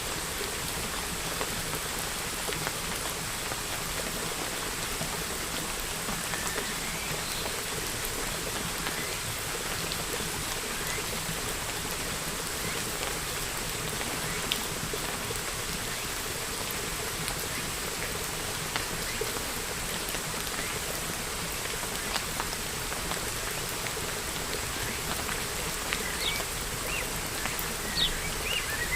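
Steady rain falling, a constant even patter of drops. A few short bird chirps come through near the end.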